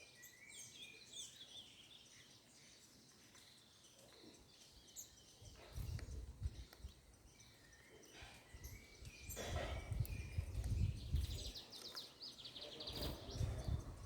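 Small birds chirping in short scattered calls, with a quick trill near the end. From about six seconds in, low rumbling bursts come and go and are the loudest sound.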